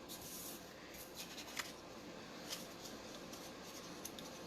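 Faint rustling and a few light ticks of paper and cardstock being handled on a craft table, with a brief scratchy hiss near the start.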